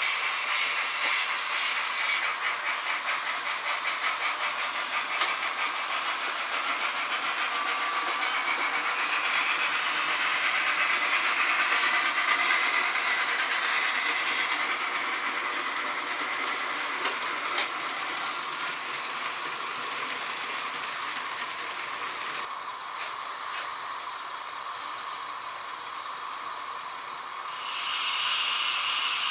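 H0-scale model trains running on the layout's track: a continuous rattle of small wheels on rails, with quick regular clicking in the first few seconds. A brighter hissing sound joins near the end.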